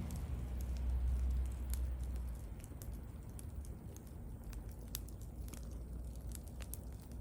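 Wood bonfire crackling, with irregular sharp pops and snaps over a soft hiss. A low rumble sits underneath, strongest in the first couple of seconds.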